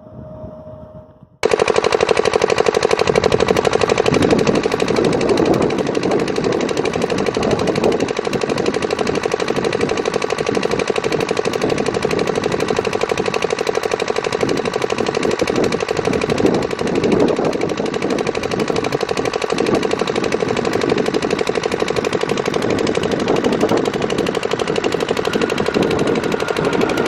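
Electric-hauled passenger train running at speed: a loud, steady, rapid clatter of wheels on the track, with a steady hum above it. It cuts in sharply about a second and a half in, after a quieter stretch.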